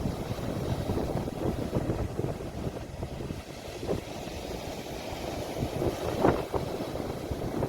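Sea waves washing on the shore, recorded on a phone with wind rumbling on the microphone; one wash swells louder about six seconds in.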